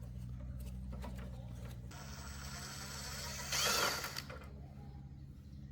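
Steady low hum with light mechanical handling noise, and a brief scraping sound about three and a half seconds in.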